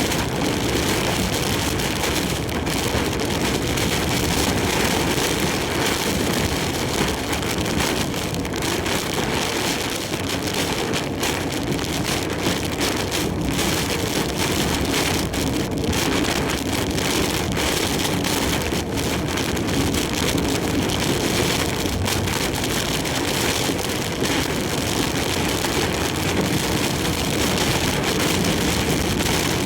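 Heavy typhoon rain and wind beating steadily on a large truck's cab while it drives, with the low rumble of the truck and road underneath.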